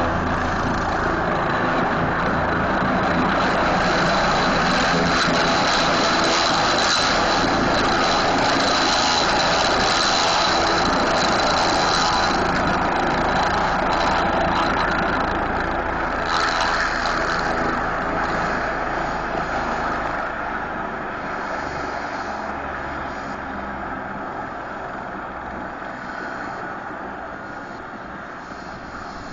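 Air-ambulance helicopter running loud and steady through its landing: rotor chop with a high turbine whine, the whine dropping out about halfway through and the whole sound easing off gradually over the last ten seconds.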